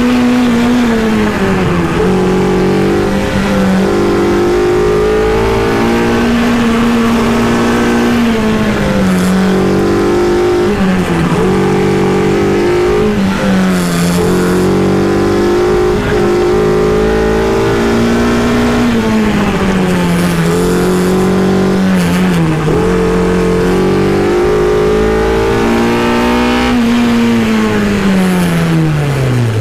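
Honda K-series four-cylinder engine in a Miata-based Exocet kit car, heard from the open cockpit running at high revs. Its pitch rises and dips again and again as the car accelerates and slows through the course, and near the end the revs fall away steadily as the car slows down.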